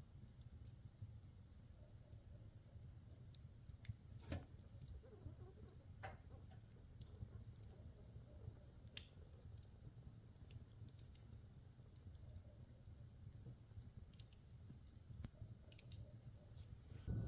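Wood logs burning in a fireplace, crackling softly: scattered small pops and snaps over a low steady rumble, with a sharper crack about four seconds in and another about six seconds in.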